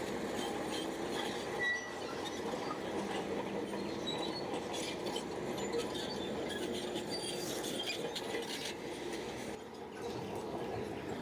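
Shantui crawler bulldozer working: its diesel engine runs steadily under the clanking, squeaking rattle of its steel tracks.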